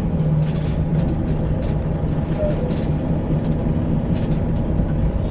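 Straight-piped Detroit Diesel 12.7 engine of a Freightliner Classic XL semi truck running steadily at low speed, with scattered light clicks and rattles.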